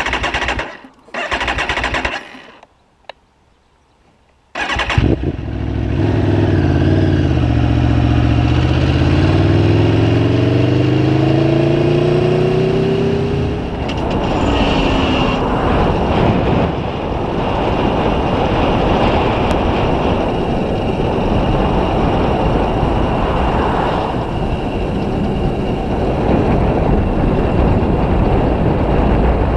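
Aprilia Tuono V4 1100 Factory's V4 engine: two short bursts in the first couple of seconds, then it starts up abruptly about four and a half seconds in. Its pitch climbs steadily as the bike accelerates away, and from about fourteen seconds in it is a steady rush of wind and engine noise at riding speed.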